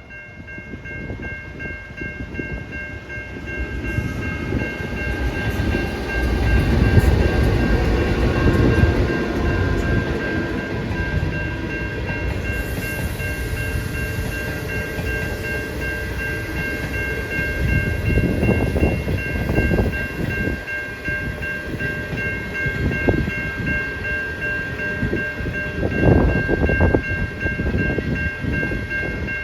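Safetran Type 3 electronic level-crossing bells ringing steadily while a train runs past with a low rumble. The rumble builds a few seconds in, is loudest after about seven seconds, and swells again twice near the end.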